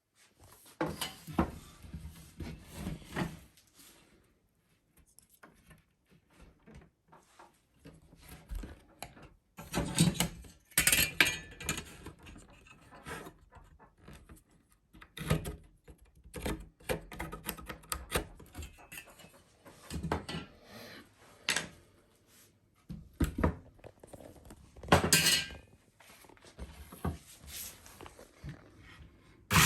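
Wooden boards and hand tools being handled at a workbench: irregular knocks, taps and short scrapes of wood on wood, with pauses between.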